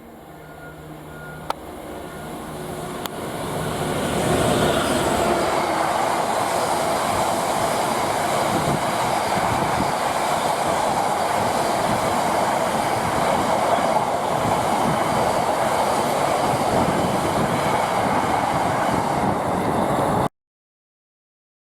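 A freight train approaches and passes close by, the sound building over the first four seconds into a loud, steady rumble of wagons on the rails. It cuts off suddenly about 20 seconds in.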